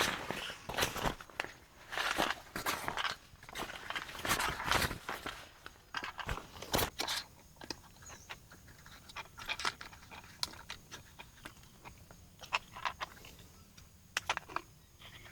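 Someone eating close to the microphone: irregular crunches and clicks of chewing and biting, busy in the first half and sparser in the second.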